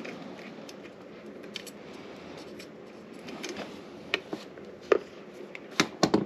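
Small clicks and taps of hand tools and wire being handled while the ground wire is fitted under a screw on a garbage disposal, scattered at first and sharper several times in the second half.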